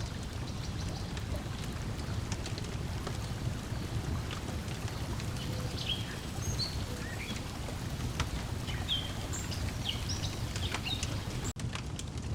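Layered lakeside ambience: a steady low rumble of lapping water under many sharp crackles from a wood fire, with birds chirping in short high calls. Near the end the sound cuts out for a split second, like a loop seam.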